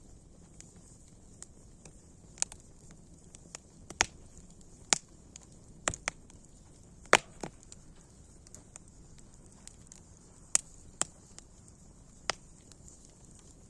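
Wood fire crackling: irregular sharp pops and snaps, about a dozen, the loudest about seven seconds in, over a faint steady hiss.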